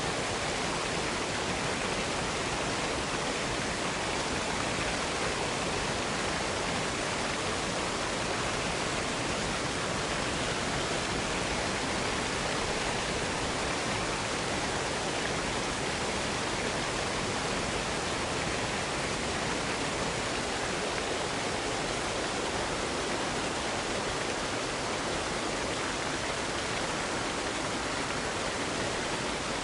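Waterfall rushing steadily: an even, unbroken hiss of falling water with no changes.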